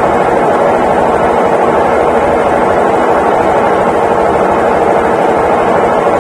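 Consul Facilite 11 kg (CWG11) washing machine in its final spin, the drum spinning at a steady speed with a constant hum.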